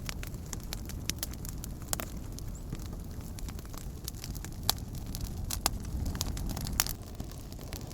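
Campfire crackling: scattered sharp pops and snaps of burning wood over a steady low rumble, with three louder pops in the second half.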